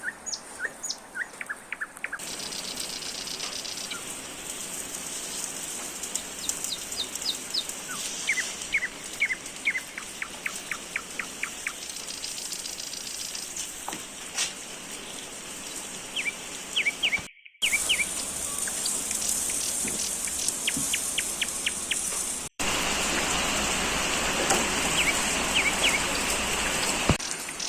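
Small birds chirping in quick runs of short repeated notes over a steady outdoor hiss. The background changes abruptly at a few points.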